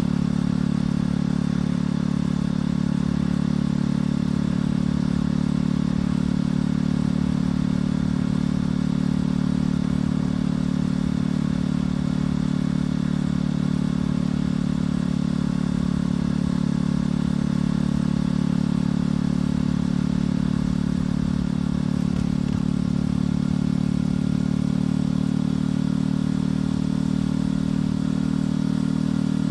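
Motorcycle engine and exhaust running steadily at an even cruising speed, its pitch holding almost constant.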